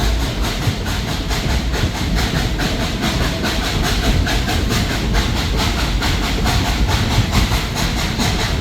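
Steam-hauled narrow-gauge passenger train running along the track: a steady rush of noise with quick, even beats and a faint steady tone under it.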